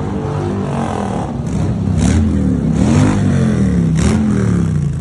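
Motorcycle engines running, one revved up and down a few times in the middle, with a couple of short sharp knocks.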